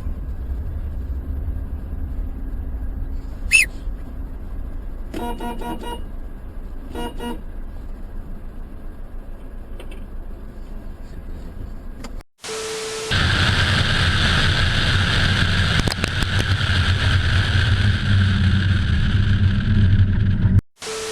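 Low vehicle rumble with two short car-horn toots about five and seven seconds in. After a brief beep, a louder steady vehicle noise takes over.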